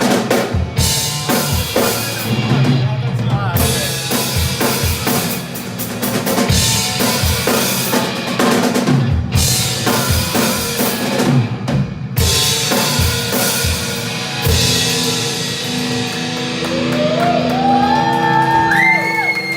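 Drum kit played with rock music, the bass drum and snare hitting hard and fast. Near the end the drumming gives way to held notes with bending pitch.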